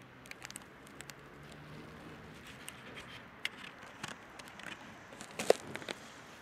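Scattered light clicks and knocks from a standing electric commuter train at a platform, over a faint steady background, with one sharper clank that rings briefly about five and a half seconds in.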